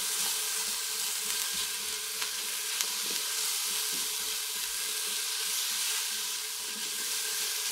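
Diced onions, potatoes, celery and garlic sizzling steadily in butter and oil in a Ninja Foodi's pot on sauté, stirred with a wooden spoon that gives a few light scrapes.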